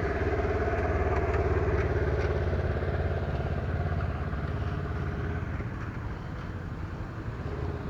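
An engine running close by with a fast, even low beat, gradually growing quieter.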